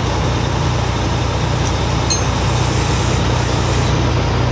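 Tow truck engine running steadily with an even low hum.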